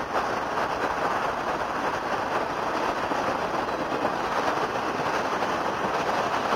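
Autorack freight cars rolling past close by: a steady rumble and clatter of steel wheels on rail.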